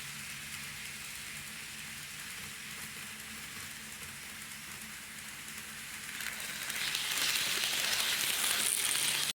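N gauge model train running on the track: a steady hiss of wheels on rail with a faint motor hum, growing louder about six to seven seconds in.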